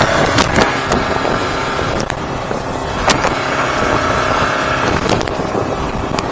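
Boat running at speed on its Yamaha F200XB outboard: steady motor and rushing water noise, broken by several sharp knocks.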